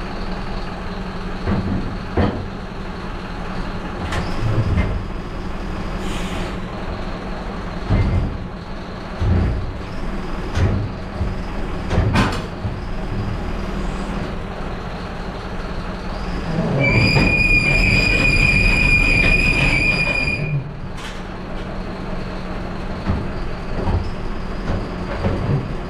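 Hooklift truck at work: engine running steadily under scattered metal clunks and knocks, with a steady high-pitched squeal lasting about three and a half seconds, some two-thirds of the way through.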